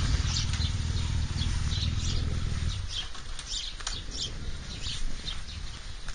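Small birds chirping in short, repeated calls, over a low rumble that stops about three seconds in.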